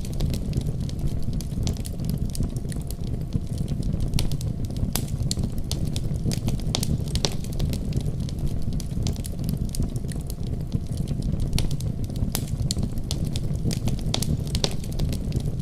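Wood fire crackling, with frequent irregular sharp pops and snaps, over a steady deep rumble of a storm outside.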